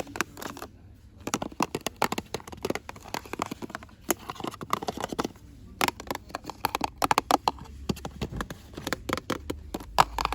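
Fast ASMR rustling, tapping and scratching on packaged goods: a dense, irregular run of crinkles and sharp clicks.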